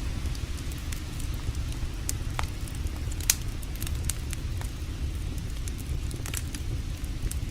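Campfire crackling, with irregular sharp pops, the loudest about a third of the way in, over a steady low rumble.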